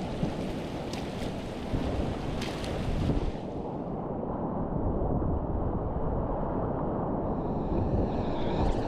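Rushing whitewater of a class III river rapid heard from a kayak, a steady heavy wash of water noise. About four seconds in the sound turns duller, losing its hiss, and a wavering higher rush comes in near the end.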